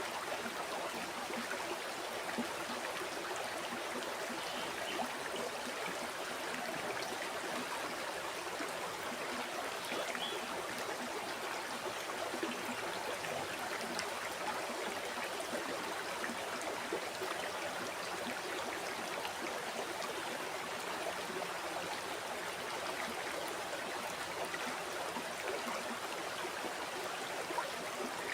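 A river or stream flowing steadily, with a continuous rushing and small trickles and splashes over the top.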